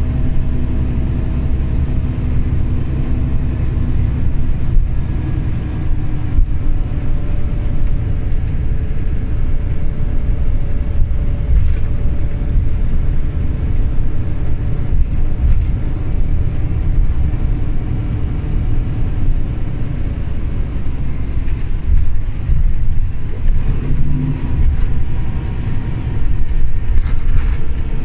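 Scania OmniLink CL94UB city bus under way, heard from inside: a steady low engine and road rumble with faint engine tones that drift up and down as the speed changes. Light rattles click now and then.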